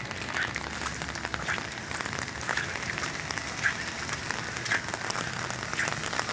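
Steady patter of rain on wet pavement, with a soft regular scuff about once a second from footsteps walking through it.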